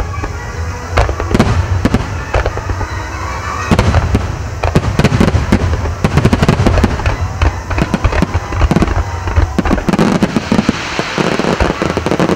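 Barrage of Japanese aerial firework shells bursting in quick succession. The booms overlap with crackle and rumble throughout, and are densest through the middle.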